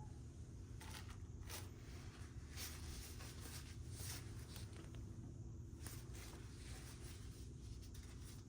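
Faint, scattered clicks and rustles of hand work over a low steady hum.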